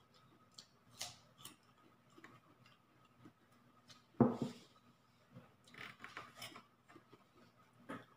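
Close-up eating sounds: chewing with scattered small clicks, and one louder thump about four seconds in.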